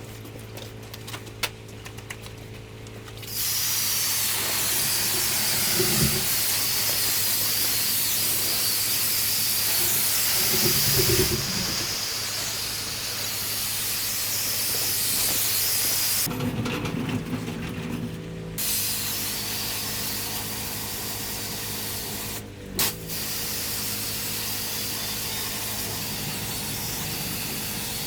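Pressure washer jet spraying water onto block paving: a loud, steady hiss over the constant hum of the machine's motor. The spray starts about three seconds in, stops for about two seconds past the middle while the machine hums on, and cuts out briefly once more before resuming.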